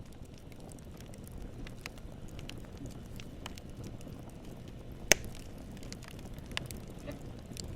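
Wood campfire crackling: a steady low rush of burning with scattered small crackles, and one sharp loud pop about five seconds in.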